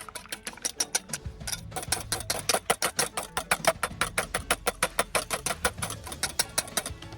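A whisk beaten fast by hand in a bowl, about seven even strokes a second, growing stronger after about a second, with background music.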